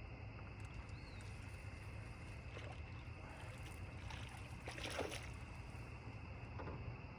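Small fishing boat on the water: a steady low hum with faint water noise, and a brief louder rustle or splash about five seconds in.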